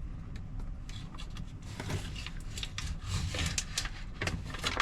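Crinkling and rustling of a foil-faced sound deadening sheet being handled, in a string of irregular crackles and short scrapes.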